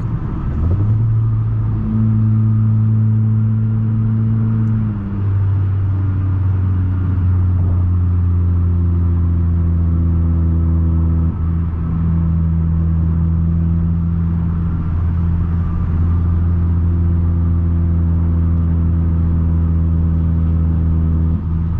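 Straight-piped 2020 Nissan Altima's exhaust droning loudly while driving in sport mode, heard from inside the cabin. The pitch climbs about a second in, drops about five seconds in, then holds steady, with brief dips near the middle and near the end.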